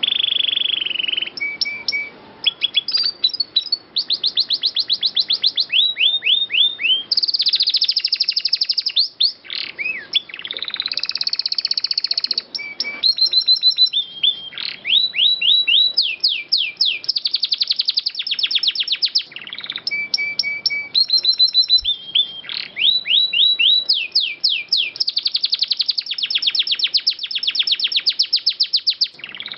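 Domestic canary singing a continuous song of fast trills and long rolls, with runs of rapidly repeated notes that sweep down in pitch and short held whistles in between.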